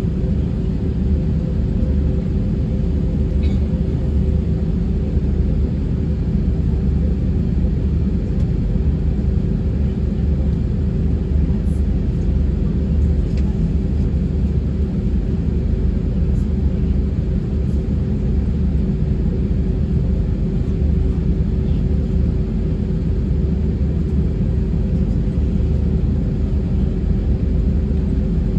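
Steady cabin rumble of a JetBlue Airbus A320 with its engines running at a constant low power on the ground, a deep even roar with a steady hum over it.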